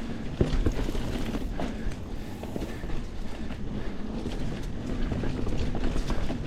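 Mountain bike riding along a dirt singletrack trail: steady tyre and rolling noise with frequent rattles and knocks from the bike over bumps.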